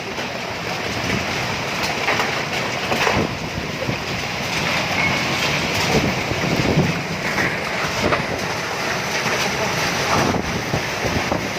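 Heavy rain with strong gusting wind: a dense, steady rushing noise that swells and eases with the gusts.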